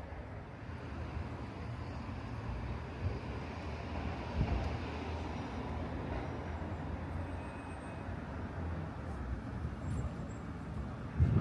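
Road traffic: a vehicle passing, its tyre and engine noise swelling in the middle and fading again over a steady low rumble.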